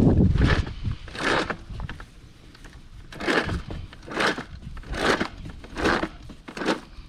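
Footsteps crunching at a walking pace, about one step a second, after a low thump at the start.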